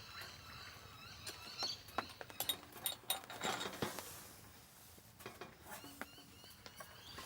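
Light clinks and knocks of camp cookware and utensils, a scattered run of small clicks with a brief soft hiss a little past the middle.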